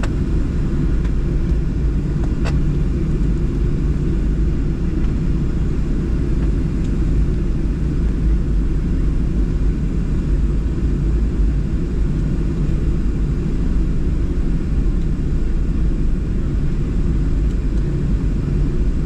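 Steady low rumble inside the cabin of a Boeing 737-700 taxiing after landing, with its CFM56 engines at idle.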